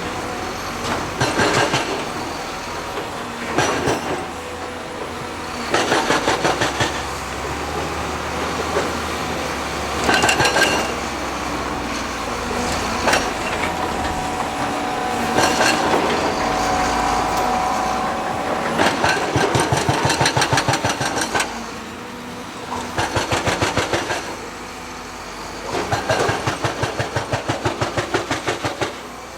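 Heavy construction machinery running, with repeated bursts of rapid, evenly spaced clattering knocks, about five a second, over a steady engine noise.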